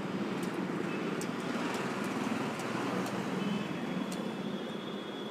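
Steady background rumble like distant road traffic, with a few faint clicks.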